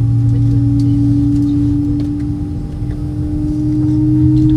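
Steady droning hum of an Airbus A320-232 heard from inside the cabin during taxi, its main tone slowly rising in pitch. A deeper tone fades out about halfway through and returns slightly higher near the end.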